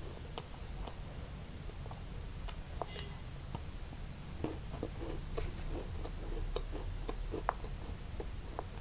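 Close-miked chewing of a crisp fried pastry: scattered small crunches and mouth clicks, growing denser from about four seconds in, over a steady low hum.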